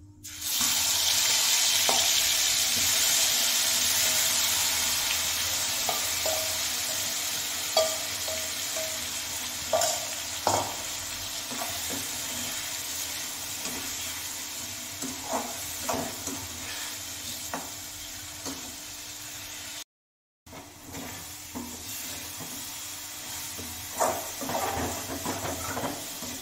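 Masala-coated potatoes dropped into hot oil in an aluminium kadhai: a loud sizzle that starts at once and slowly dies down as they fry. A metal spatula scrapes and clicks against the pan as they are stirred.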